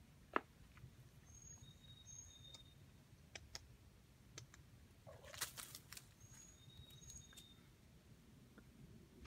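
Near silence, with faint high bird chirps in two short bouts, a few light clicks (the sharpest just after the start), and a brief rustle about halfway through.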